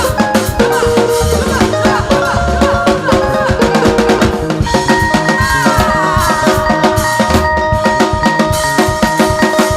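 Upbeat praise band music: a drum kit keeps a fast, even beat under held chords, which become long and sustained about halfway through.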